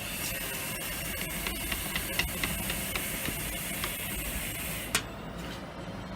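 Old window caulking being cut and scraped away: a steady scraping noise with scattered light clicks and one sharper click about five seconds in.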